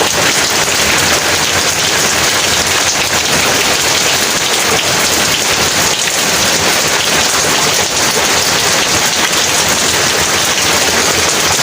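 Heavy rain pouring down steadily in a dense, unbroken hiss of drops hitting the ground.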